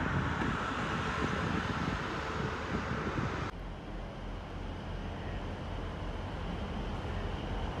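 A passing train's running noise mixed with wind buffeting the microphone; about halfway it cuts off abruptly to a quieter, steady low rumble of a train approaching along the platform.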